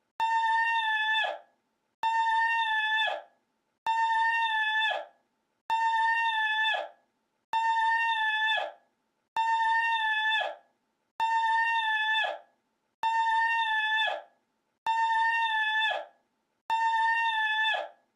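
The same short, high-pitched cry repeated about every two seconds, ten times in all: a loop of one sound clip. Each cry holds one pitch for about a second, then drops away at the end.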